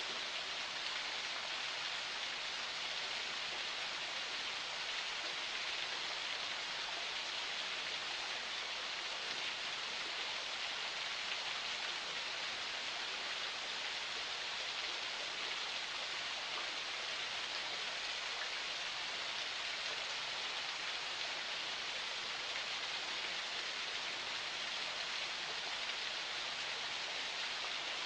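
Water of a small forest spring flowing, a steady, even splashing rush that holds unchanged throughout.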